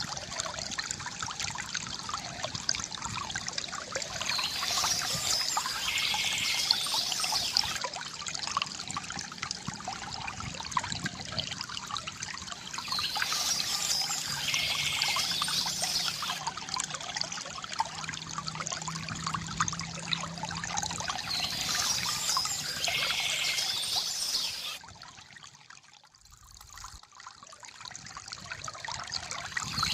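Stream water trickling and splashing steadily. Near the end the sound drops away sharply for two or three seconds before building back up.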